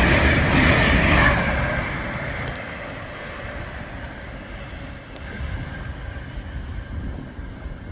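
A train running past on the platform line, a loud rushing noise that dies away over the first two seconds, leaving a quieter rumble.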